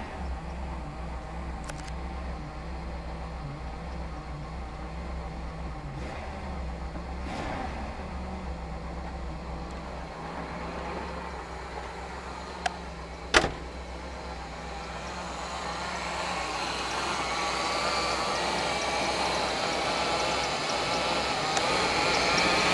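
1979 Ford Mustang's 302 V8 with a Motorcraft 2150 two-barrel carburettor idling steadily. There are two sharp knocks about two-thirds of the way through, and the engine grows louder toward the end.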